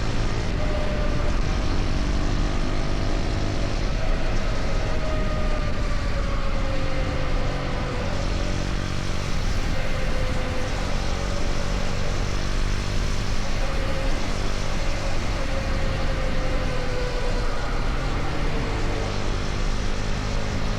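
KTM Duke 250's single-cylinder engine running at a steady cruise, its pitch easing slightly over the first several seconds and then holding level, under a heavy rush of wind and road noise.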